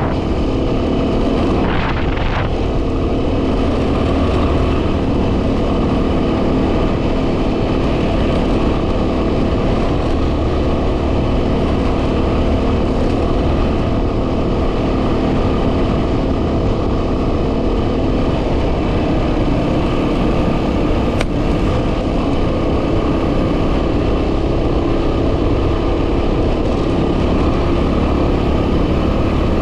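2010 Yamaha WR250R's single-cylinder 250 cc engine running steadily under way, under heavy wind noise on the microphone. A brief knock comes about two seconds in.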